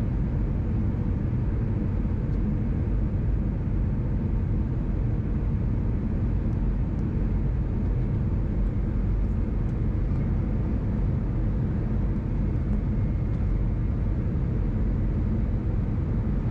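Steady, even cabin noise of an Airbus A319 airliner, a deep rumble of engines and air with no distinct events.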